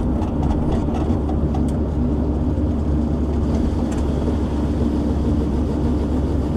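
Diesel engine of a shovel logging machine with a dangle-head saw running steadily, a constant low engine drone.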